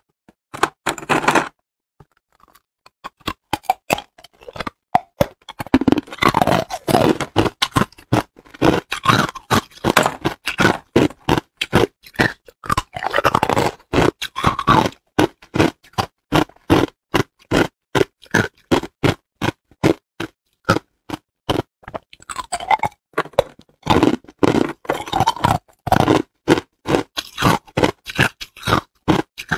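Hard clear ice being bitten and chewed close to the microphone: rapid, irregular crunches and cracks, many a second, after a short quiet start.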